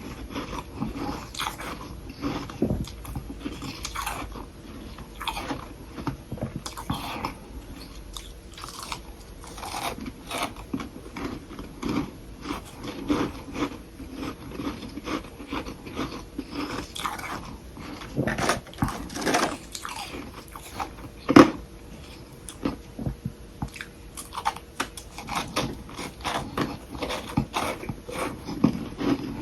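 Close-miked biting and chewing of soft humidifier frost sticks: an irregular run of soft, powdery crunches, with one sharp, loud crunch about 21 seconds in.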